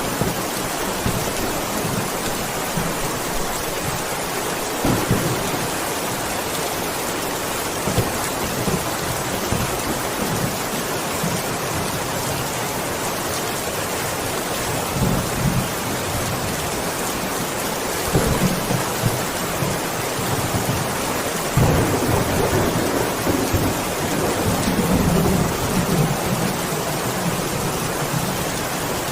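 Heavy rain pouring down in a steady hiss, with several low rumbles of thunder, the longest stretch from about two-thirds of the way through.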